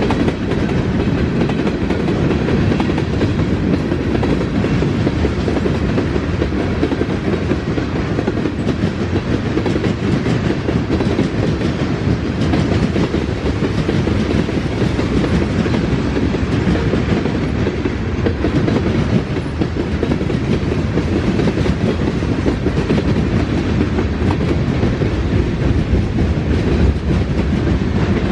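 A Norfolk Southern freight train's cars rolling steadily past at close range, wheels clattering on the rails.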